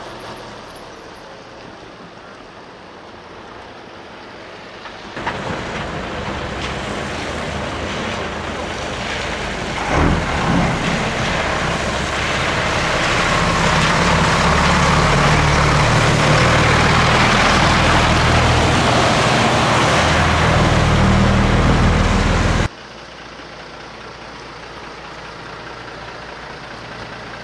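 Scania truck engines running as the trucks drive by. The sound grows louder about five seconds in, stays loud through the middle, and cuts off abruptly near the end.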